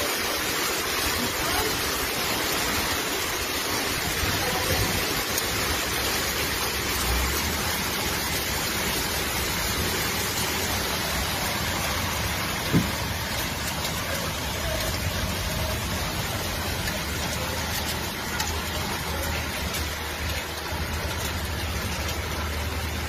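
Heavy downpour and rushing floodwater: a steady, even hiss of water, with one short sharp knock about halfway through.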